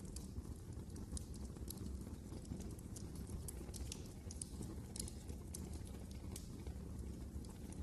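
Wood fire burning in a fireplace: irregular sharp crackles and pops, several a second, over a low, steady rumble.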